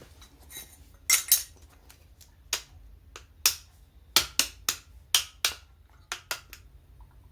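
Metal tools and parts clinking and knocking during hand work on a 4WD coupling, about a dozen sharp strikes at uneven intervals.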